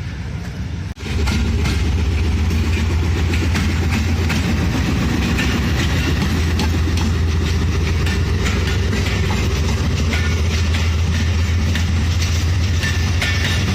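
Diesel-hauled passenger train moving through the station close by, cutting in suddenly about a second in: the locomotive's engine gives a steady low hum over the rolling of the wheels on the rails.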